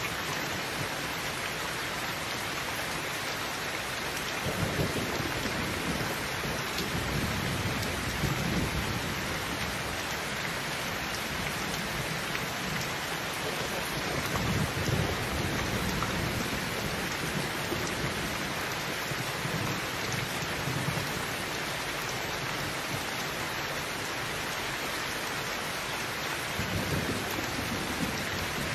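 Heavy rain pouring steadily onto a roof, with several low rolls of thunder rumbling underneath.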